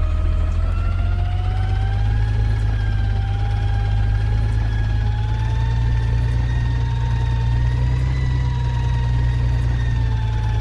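Garbage truck running under load: a steady diesel engine drone under a whine that climbs slowly in pitch, then drops back about eight seconds in.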